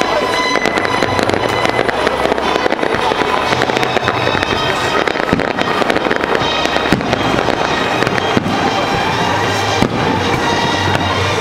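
Fireworks display: shells bursting with sharp bangs and crackling, many in quick succession, with music playing underneath.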